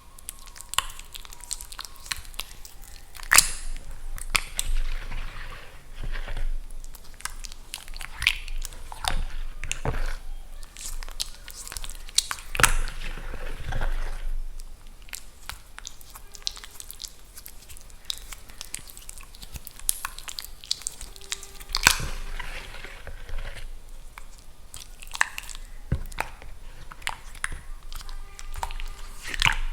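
Balls of chalk soaking in water, crackling and fizzing with irregular small pops as air bubbles escape, and a few louder sharp cracks here and there.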